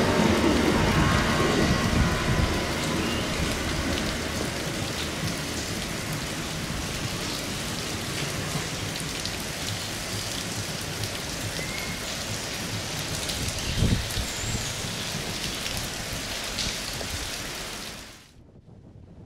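Steady heavy rain falling around a station platform and canopy, with the low rumble of a freight train's empty wagons fading away over the first few seconds; a single low knock is heard partway through, and the sound cuts off abruptly near the end.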